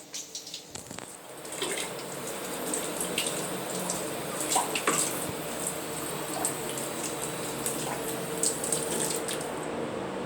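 Water running from a tap and splashing into a sink, starting up about a second in.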